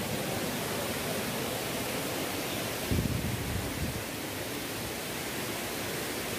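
Steady rushing hiss of a waterfall, with a single low thump about three seconds in.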